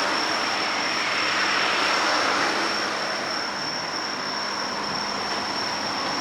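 Steady wash of noise with a constant high-pitched whine over it.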